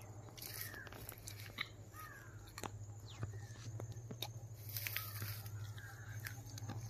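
Faint outdoor bird calls: several short, falling calls scattered through, over a steady low hum and light clicks.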